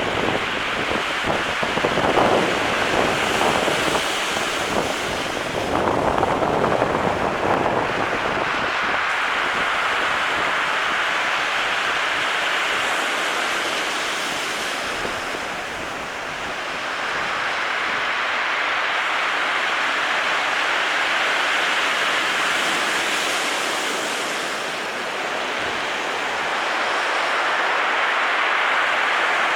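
Sea surf breaking and washing on the shore, swelling and easing in long waves, with wind buffeting the microphone for the first several seconds.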